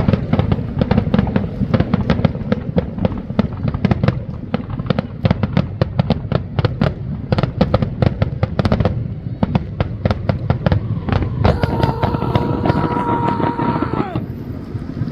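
Fireworks finale: rapid crackling and popping, many reports a second, with a low continuous rumble, thinning out after about nine seconds. Near the end a steady horn tone sounds for about two and a half seconds.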